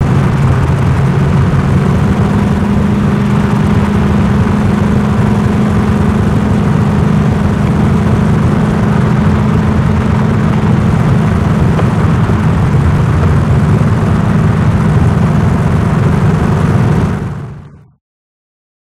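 Big-block Chevrolet V8 of a modified HK GTS Monaro running at a steady cruise, a constant low drone with no revving, fading out near the end.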